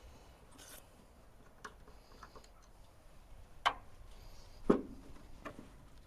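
A few scattered sharp knocks and clicks over a quiet background, the loudest just under five seconds in.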